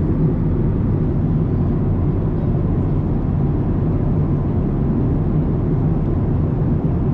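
Boeing 787 Dreamliner's jet engines running: a loud, steady low rumble.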